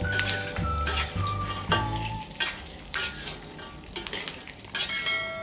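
Peanuts frying in hot oil in a wok, sizzling, while a metal spatula stirs them and scrapes the pan in irregular strokes. Background music plays over the first two seconds, then stops.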